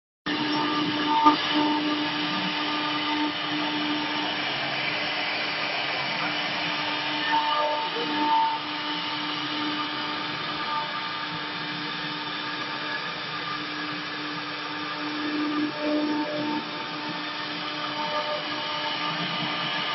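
Two-head CNC router's spindles running and carving wood: a steady motor whine with several held tones, swelling slightly a few times.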